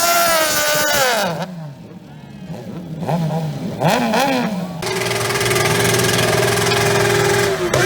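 Racing motorcycle engines at high revs. One bike's note falls in pitch and fades about a second in. Quieter engine notes then rise and fall with gear changes. From about five seconds in, a loud, steady high-revving note holds, then drops near the end.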